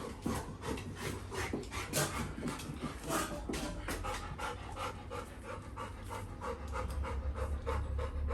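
Labrador retriever puppy panting fast and evenly, about three to four breaths a second, with a few louder breaths in the first half, as it waits eagerly to be taken out.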